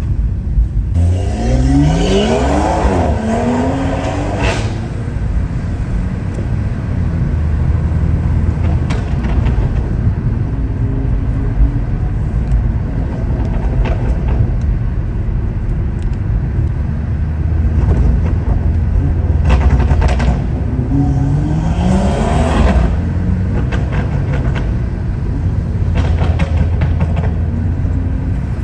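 BMW M140i's 3.0-litre turbocharged B58 straight-six with a custom exhaust, accelerating hard twice, its pitch rising through each pull, with a steady low rumble between. Sharp cracks come near the end of each pull.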